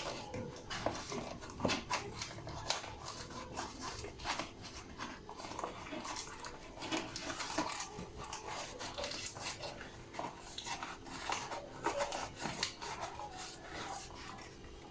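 A spoon clinking and scraping against a cocoa tin and a mixing bowl while two tablespoons of cocoa powder are measured out: irregular small clicks and knocks throughout.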